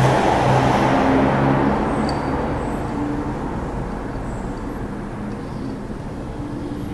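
A motor vehicle going by, its rumble slowly fading over several seconds.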